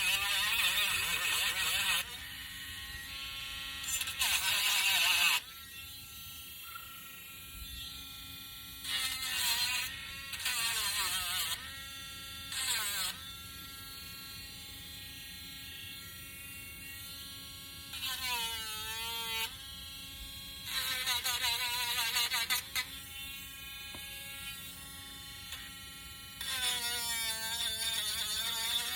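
A small electric sanding tool's motor runs with a steady hum. Every few seconds it is pressed to the wooden piece, giving louder bursts of sanding noise in which the motor's pitch dips and then recovers.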